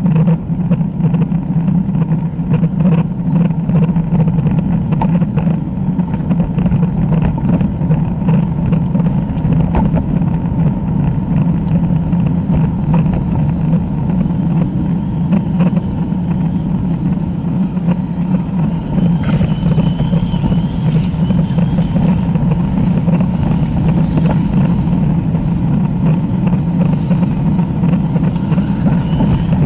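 Steady rushing wind and road noise on a camera carried on a moving road bicycle.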